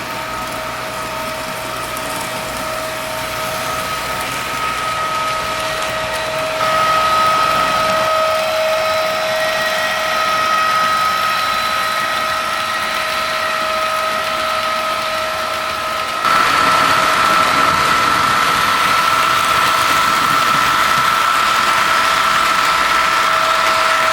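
Märklin HO model train running on the track: a steady, even-pitched electric motor whine with rolling noise, getting louder in a step about a third of the way in and again past the middle.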